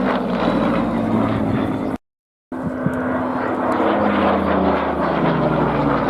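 Spitfire piston engines droning as the aircraft fly past, their pitch sliding slowly. The sound cuts out completely for about half a second around two seconds in, then returns.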